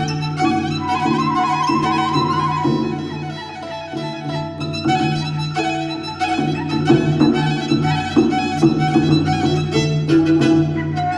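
Five-string viola playing a melody with a Nanyin ensemble, with plucked-string notes throughout and a fast trill in the first few seconds.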